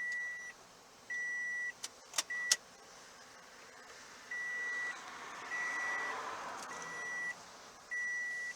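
Toyota Tundra's in-cab warning chime: a single steady high beep, about half a second long, repeating roughly once a second, seven beeps in all with one skipped beat. A few sharp clicks come between the beeps about two seconds in.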